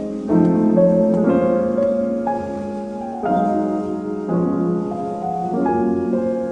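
Background piano music: slow, gentle chords and a melody, with a new chord struck about every second.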